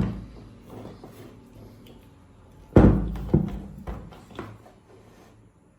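Hard knocks and clatter of a compact trim router being handled and turned over on a work surface: one knock at the start, a louder one about three seconds in, then a few smaller taps.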